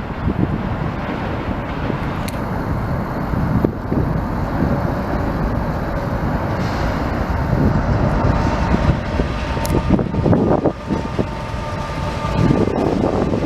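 CN intermodal freight train rolling past with a steady, continuous rumble of wheels on rail.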